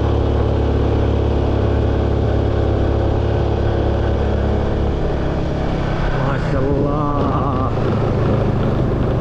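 Car cabin noise while driving: a steady low engine and road hum. A man's voice briefly exclaims near the end.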